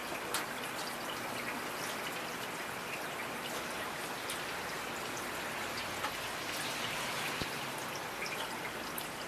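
Steady rain with individual drops pattering and ticking on a hard surface, one sharper drop about half a second in.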